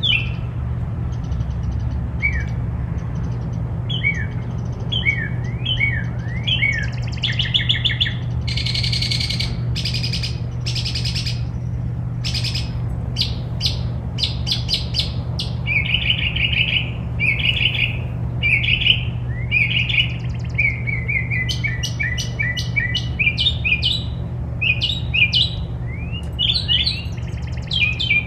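Songbirds chirping and singing: quick rising chirps, rapid trills and buzzy phrases, over a steady low hum.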